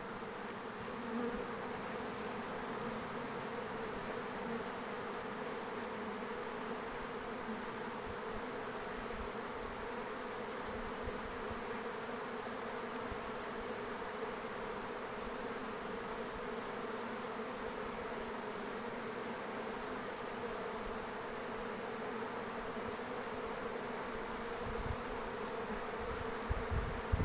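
Honeybee swarm buzzing, a steady dense hum with no rise or fall, as the bees settle into a hive box with some fanning at its entrance.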